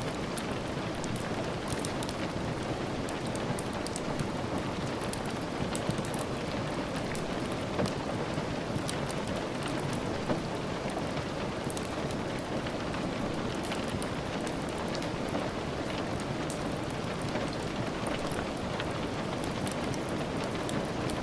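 Steady rain with the crackle of a wood fire: an even hiss of falling rain, with small sharp pops and ticks scattered through it.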